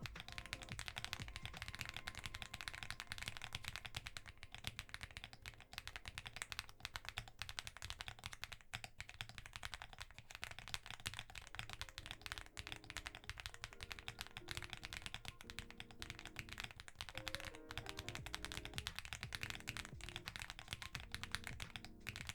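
Continuous fast typing on a mechanical keyboard with Jerzzi Lotus V2 linear switches in a Weikav Record Alice V2 board: a dense stream of keystroke clacks, over soft background music.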